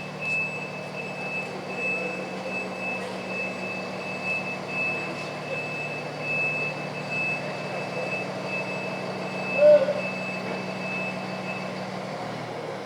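A fire engine's engine idling with a steady low hum, a thin high-pitched whine above it that stops near the end, and a brief louder sound about ten seconds in.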